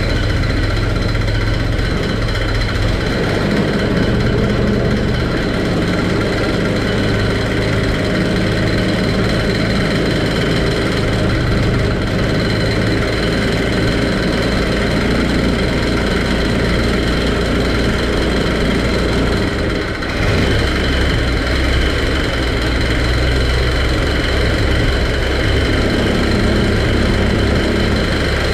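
A 1927 Ford Model T's four-cylinder engine idling steadily on its first start-up after sixty years without running. It dips briefly about twenty seconds in, then runs on.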